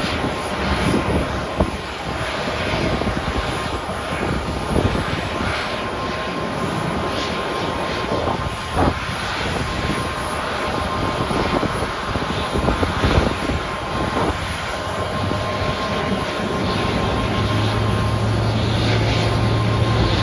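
Airliner jet engines running with a steady whine, under the irregular rumble of strong wind gusting on the microphone; a low engine hum builds and gets louder over the last few seconds.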